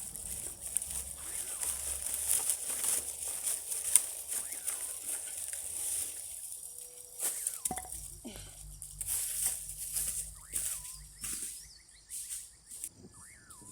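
Dry fallen branches and leaf litter rustling, cracking and snapping as firewood is gathered and handled. A steady high-pitched insect buzz runs behind it, and a couple of short bird whistles sound midway and near the end.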